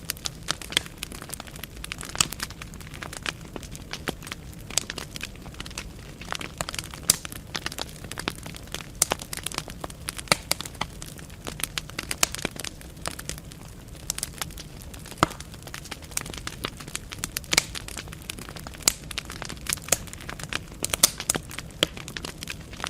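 Wood fire burning in a fireplace, the logs crackling with frequent irregular sharp pops and snaps over a steady low rumble of flame.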